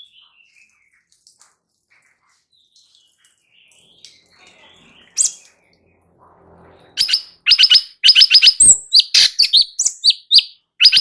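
Cucak cungkok songbird singing: faint high twittering at first, a single sharp note about five seconds in, then a loud, fast run of sharp chirps, several a second, from about seven seconds in.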